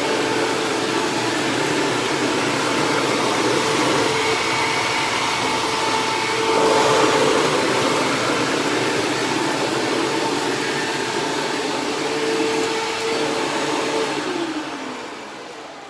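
Hoover WindTunnel Self-Propelled upright vacuum cleaner running, a loud rushing hum with a steady motor whine, briefly louder about seven seconds in. Near the end the motor winds down, its whine falling in pitch as the sound fades.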